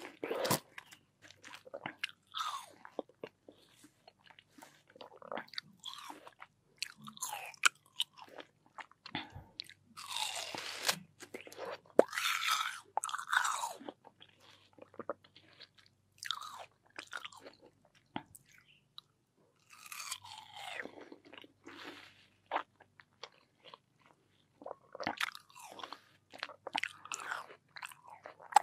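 Close-miked bites and chewing of crisp, juicy watermelon: crunching bites in clusters with short pauses between, the heaviest crunches about ten seconds in and again around twenty seconds.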